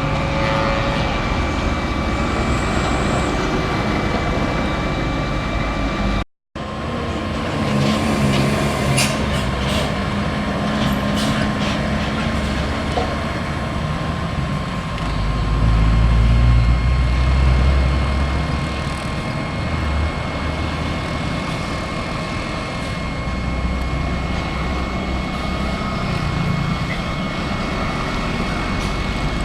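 Heavy diesel trucks and buses passing on a road, their engine rumble swelling to a loud pass about halfway through and then fading. A clean break of silence a few seconds in marks a cut between shots.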